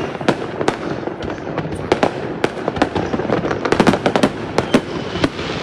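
Fireworks going off in a dense, irregular barrage: sharp bangs and cracks, several every second, over a constant crackle.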